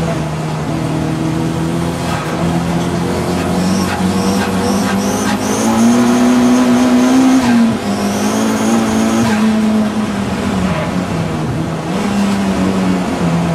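Audi TT race car's engine running hard at racing speed, its pitch climbing, then dropping sharply about eight seconds in and dipping again later. High-pitched tyre squeal comes in short squeals about four seconds in and a longer one between about six and nine seconds.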